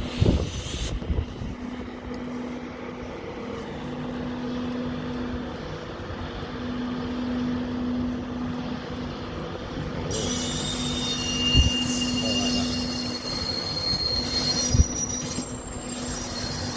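Train on the tracks: a steady hum that swells and fades every second or two, joined about two-thirds of the way through by high-pitched wheel squeal, with two sharp clunks.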